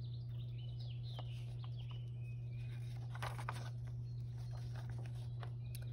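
Small birds chirping faintly over a steady low hum, with a couple of brief clicks about three seconds in.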